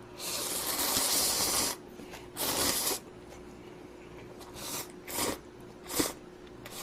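Someone slurping instant ramen noodles from a budae-jjigae ramen: a long slurp, a second shorter one, then a few brief sucking draws.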